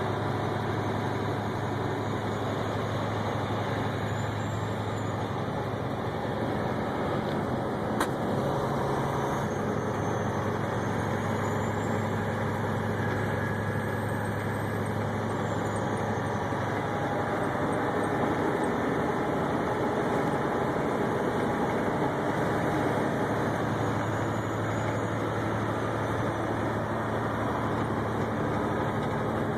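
Steady engine and road noise inside a moving vehicle's cabin, with a low engine hum that fades and returns and a single sharp click about eight seconds in.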